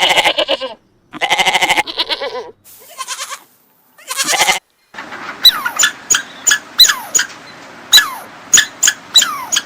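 Bleating livestock, four wavering bleats in a row; then, about five seconds in, a quick series of short high squeaks, each dropping in pitch.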